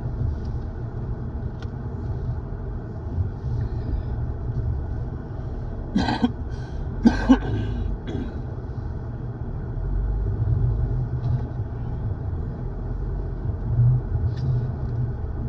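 Steady low rumble of a car's engine and cabin heard from inside the car as it rolls slowly into a parking space. Two short throat sounds come about six and seven seconds in.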